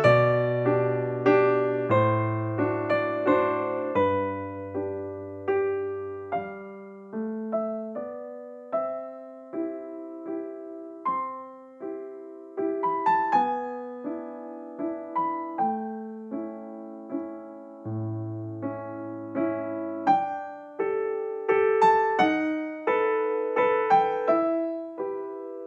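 Background piano music: single notes struck one after another and left to fade, over slow, held bass notes.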